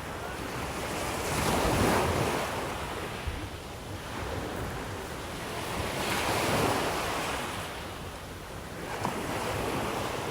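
Sea waves breaking on the shore, coming in slow surges, with two swells peaking about two and six seconds in.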